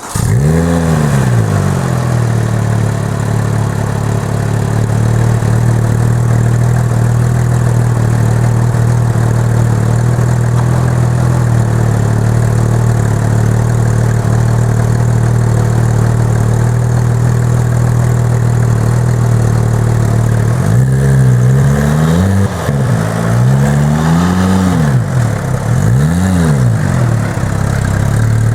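Porsche 997 GT3 flat-six engine flaring as it catches on start-up, then idling steadily. Over the last eight seconds it is blipped about five times, each rev rising and falling quickly.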